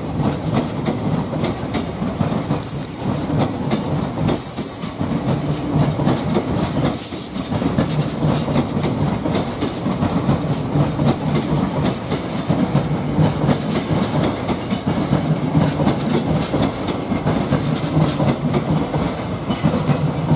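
Electric commuter train running past close by, its wheels clattering steadily over the rail joints, with a few brief high-pitched wheel squeals along the way.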